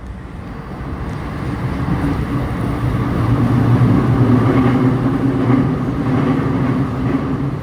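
An electric train running by, its rumble and wheel noise building over about four seconds and then easing off slowly.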